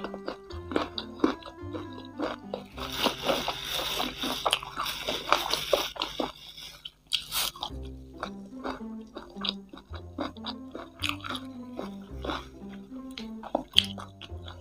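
Close-up crunching and chewing of crispy fried chicken feet coated in Samyang hot sauce, densest and loudest a few seconds in, over background music with a simple stepping melody.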